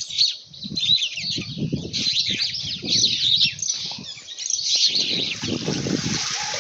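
A chorus of wild birds chirping and singing in quick, overlapping calls, with intermittent low rumbles underneath. A steady rushing hiss builds in from about five seconds in.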